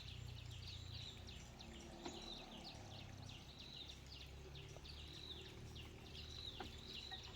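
Faint high chirps of birds, repeating several times a second, over a low steady rumble.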